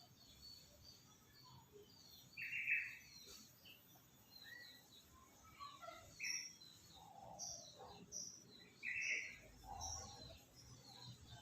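Birds chirping in many short calls, a few of them louder, every few seconds.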